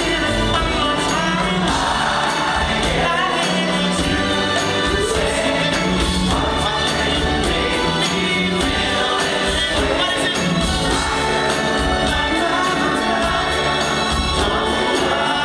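Male vocal group singing a Motown soul song in close harmony, backed by a live band with a steady drum beat.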